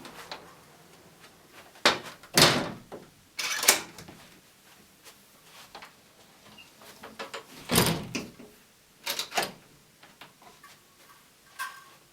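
A series of irregular knocks and clunks, the loudest about two and a half seconds in and again near eight seconds, with quieter ones in between.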